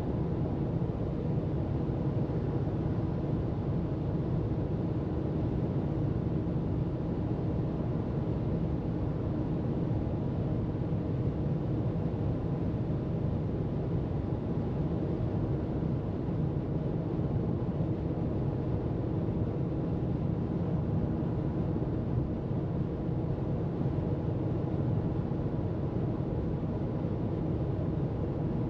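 Steady road noise of a car cruising at freeway speed: a constant low rumble of tyres and engine with a faint, even hum over it.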